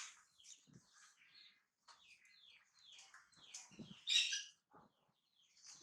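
A baby monkey's short, high-pitched squeaks and chirps in a rapid string, with a louder one about four seconds in.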